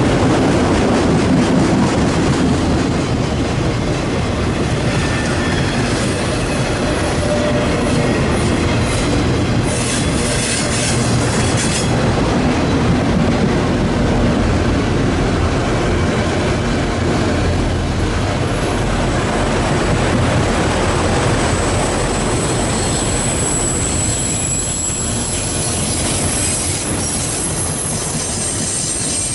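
A train rolling past with a steady, loud rumble of wheels on rail; from about two-thirds of the way in, high-pitched wheel squeal rises over it.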